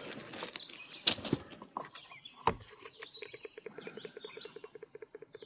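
A few sharp knocks and clicks, then birds chirping faintly over a rapid, even ticking.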